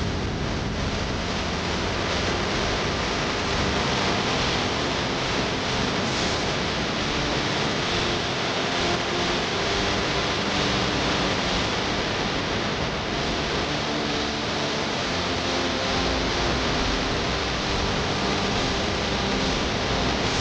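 Tiny whoop FPV drone's small motors and ducted propellers running in flight: a steady rushing noise with faint tones that shift up and down as the throttle changes.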